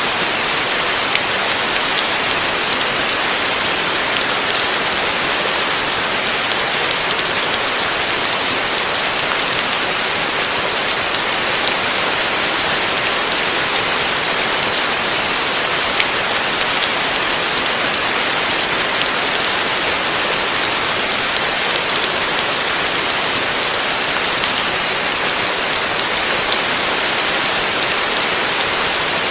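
Steady heavy rain falling on a roof, a dense even hiss flecked with individual drop ticks.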